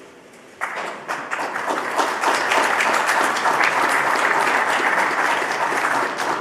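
Audience applauding: the clapping breaks out suddenly about half a second in and quickly swells into steady, dense applause.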